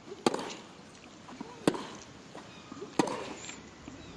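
Tennis rally: rackets striking the ball three times, about a second and a half apart, as the players trade groundstrokes.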